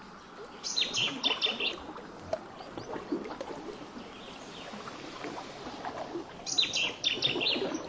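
A songbird singing two short phrases of rapid repeated high notes, about a second in and again near the end, over a steady bed of faint irregular clicking.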